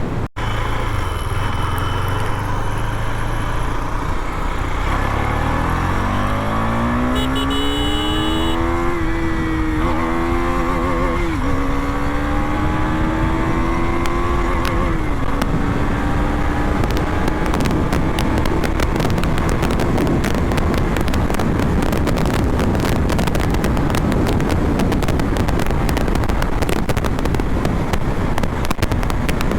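KTM Duke 250's single-cylinder engine accelerating hard through the gears: the note climbs, falls back briefly at each upshift around ten, eleven and fifteen seconds in, then holds steady at speed while wind buffets the microphone and grows louder.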